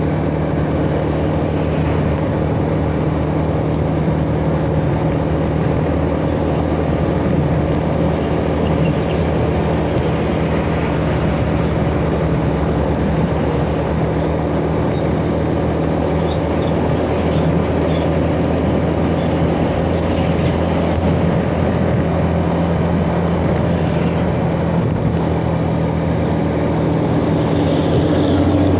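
Yamaha Jupiter Z underbone motorcycle's single-cylinder four-stroke engine running at a steady cruising speed, under wind and road noise, picking up slightly near the end.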